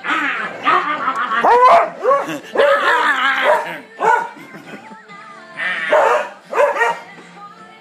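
Dog barking and yipping in a run of drawn-out, bending barks through the first four seconds, then two more bouts near the end, with background music underneath.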